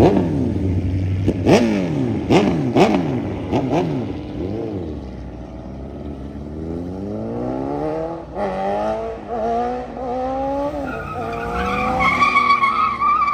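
A car engine revved hard several times with a few sharp pops, then accelerating away, its pitch climbing in steps as it shifts up through the gears. Near the end the tires squeal with a loud wavering screech.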